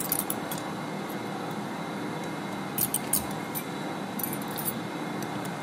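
Light, sharp metallic clicks and ticks in three short clusters from pliers handling a small steel spacer, over a steady shop hum.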